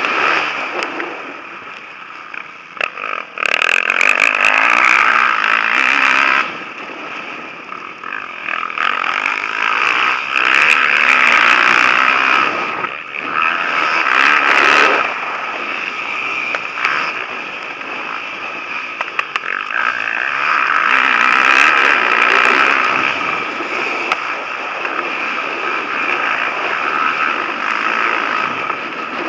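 Motocross bikes racing past, engines revving hard in repeated loud surges that swell and fall away as riders go by, with a sudden drop about six seconds in.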